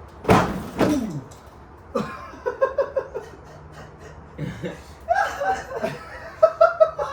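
Men laughing in several bursts of chuckles, after a sudden loud outburst about a third of a second in.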